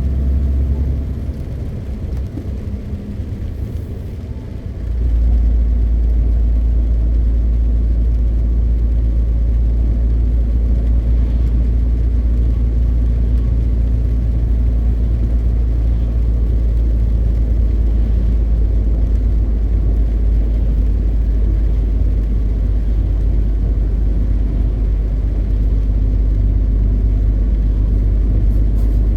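MAN TGX 520 truck's diesel engine running on the road as a steady low drone. About a second in it drops quieter for a few seconds, then about five seconds in it comes back up to a strong, even drone that holds.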